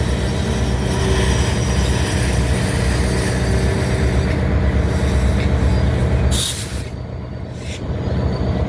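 Delmarva Central freight train rolling past at close range: a loud, steady rumble of wheels and cars, with a short hiss about six and a half seconds in, after which the sound dips a little before building again.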